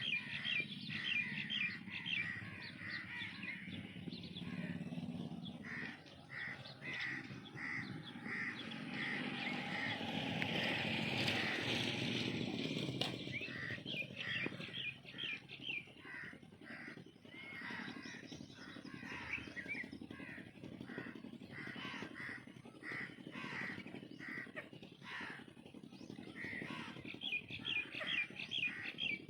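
Birds calling over and over in quick series of short, harsh notes. About ten to thirteen seconds in there is a spell of denser hissing noise.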